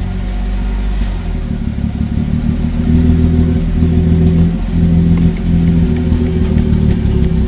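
BMW B58 turbocharged inline-six running through a straight downpipe, its note shifting up and down several times instead of holding a steady idle. It is running badly, with no throttle response and a wrong air-fuel ratio on an untuned standalone ECU.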